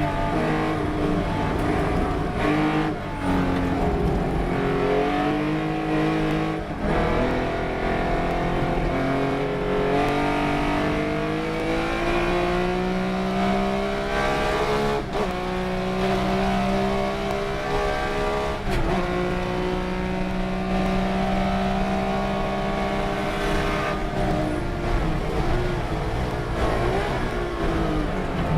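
Race car engine at full throttle, its pitch climbing through the revs with sudden breaks at gear changes, then holding steady and dropping away near the end as the car slows.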